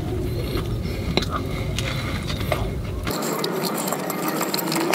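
A person chewing a mouthful of burger, with small wet clicks and crunches, over a steady low rumble that cuts out suddenly about three seconds in.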